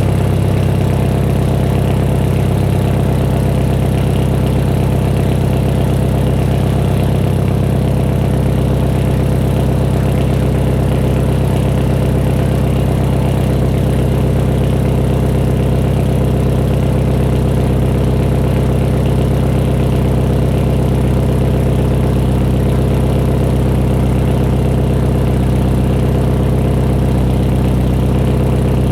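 Hyundai Genesis Coupe 2.0T's turbocharged four-cylinder engine idling steadily through a 3-inch catless single-exit exhaust.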